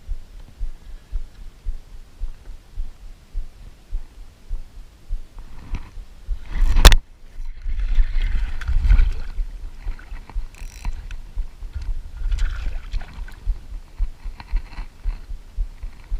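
Low, irregular bumping and knocking on a fishing kayak. About seven seconds in there is one sharp, loud hit, followed by a second or two of hissing, splashing noise.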